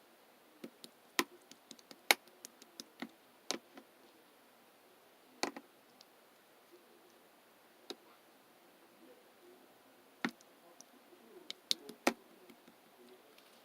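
Scattered light clicks and taps at irregular intervals, some in quick clusters, over faint room noise.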